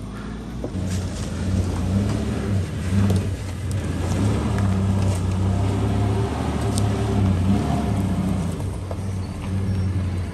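A 4WD's engine running at low revs under load as it crawls up a rough dirt track, the note rising and falling a little with the throttle.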